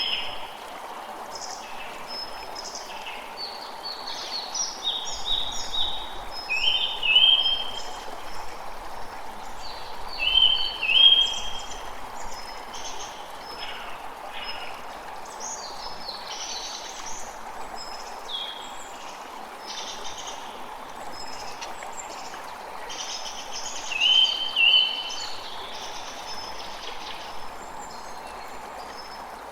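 Creek water running steadily, with several birds calling over it. The loudest is a bright two-part call that comes back three times.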